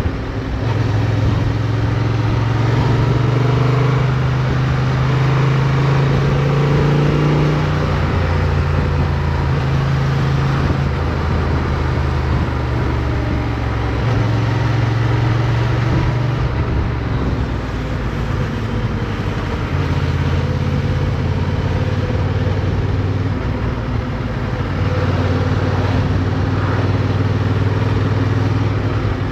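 Motorcycle engine running on the move, heard from onboard, its pitch rising and falling several times as the revs change. Over it there is a steady rushing noise.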